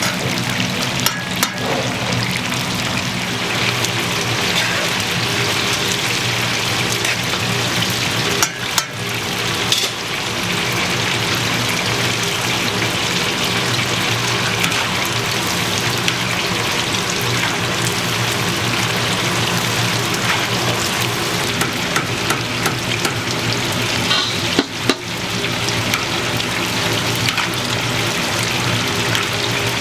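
Chicken deep-frying in hot oil: a steady, dense sizzle that briefly drops twice.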